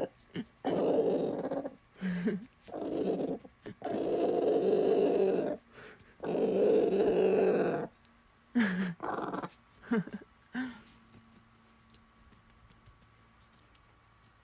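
Rooster growling in alarm: a string of harsh, low calls, five long ones of about a second or more, then four short ones that drop in pitch, going quiet about eleven seconds in. It is his reaction to a hand being wiped on something, which he treats as a threat.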